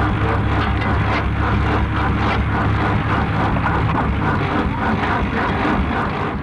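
Vintage engine running steadily with a regular pulsing beat over a deep low hum.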